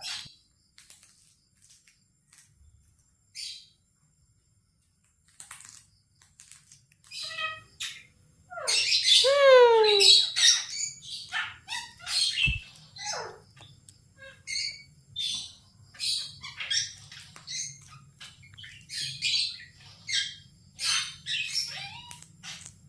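Pet parrot chirping and squawking in short high calls, sparse at first and then coming thick and fast. About nine seconds in there is one loud falling whistle. A single sharp knock comes a few seconds later.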